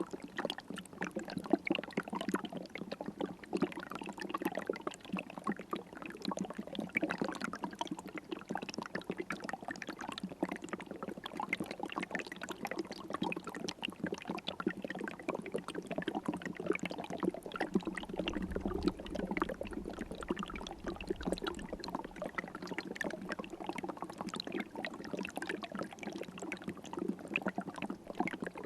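River water flowing and trickling steadily, a dense patter of small splashes, with a brief low rumble about two-thirds of the way through.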